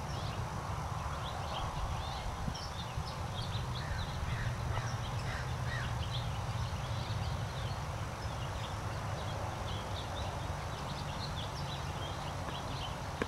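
Birds chirping, many short quick calls scattered throughout, over a steady low rumble.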